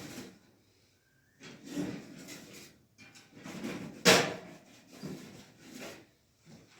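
Objects being handled: a series of short scraping or rubbing sounds, with one sharp knock about four seconds in.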